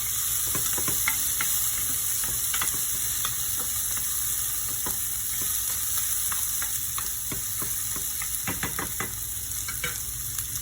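Garlic, onion and tomatoes sautéing in hot cooking oil in a frying pan: a steady sizzle with scattered sharp ticks from stirring.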